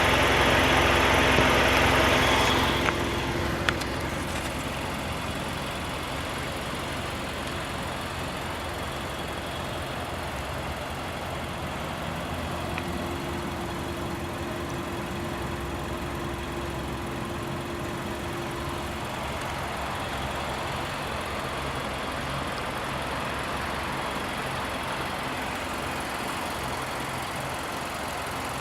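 Nissan Juke Nismo's 1.6-litre turbocharged inline-four idling steadily. It is louder for the first few seconds, then drops to a lower, even level.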